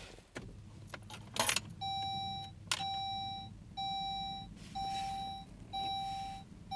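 Saab 9-5 dashboard warning chime beeping in a steady repeating pattern about once a second, sounding with the ignition switched on before cranking. A couple of clicks come first, and a low steady hum starts under it.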